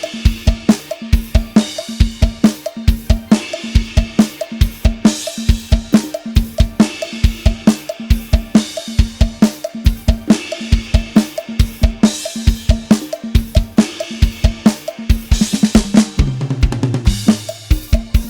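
Programmed drum kit playing live-style drum samples: a steady, fast groove of kick, snare and hi-hat, with a cymbal crash about every second and a half to two seconds. Near the end a tom fill rolls down in pitch.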